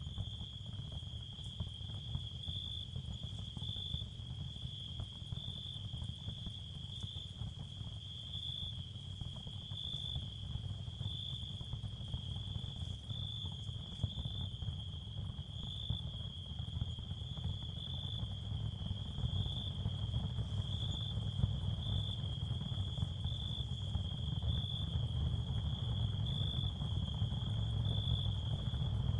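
Ambient sound-therapy bed: a steady high chirring like crickets, swelling gently about once a second, over a continuous low rumble. It grows slightly louder in the second half.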